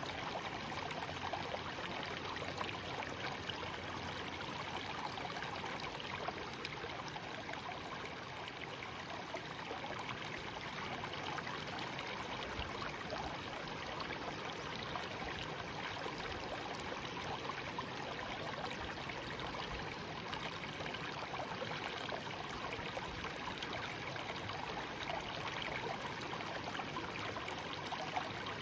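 A small stream babbling steadily.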